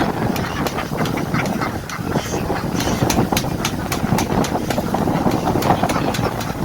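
A large flock of domestic ducks quacking all at once in a dense, continuous din, with many sharp clicks through it.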